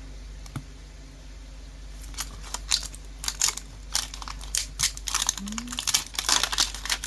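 Plastic packaging crinkling and crackling in the hands, a few clicks at first and then dense rustling in the last couple of seconds. Under it a steady low hum from a fan and bubbling fish tanks.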